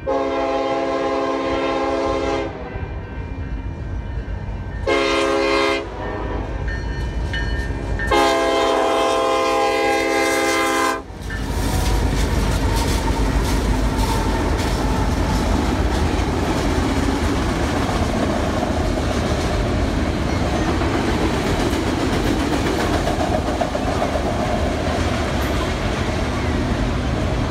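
Union Pacific freight locomotive horn sounding for a grade crossing: a long blast, a short one and a long one, the last ending about eleven seconds in. Then the locomotives pass close by, giving way to the steady rumble and clickety-clack of a long train of empty autorack cars.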